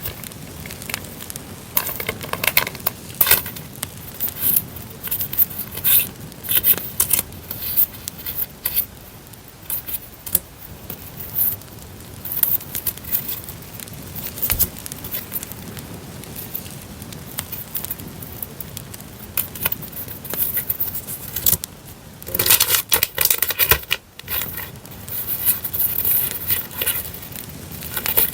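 Paper and sticker sheets being handled and shuffled, in irregular bursts of rustling and crinkling that are busiest near the start and again near the end. Under it runs a steady campfire crackle laid on as background.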